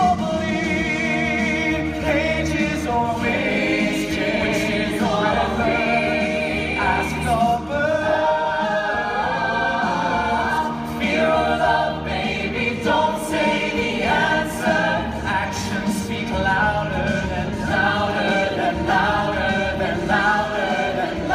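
A group of voices singing a song together in harmony, with long held, wavering notes.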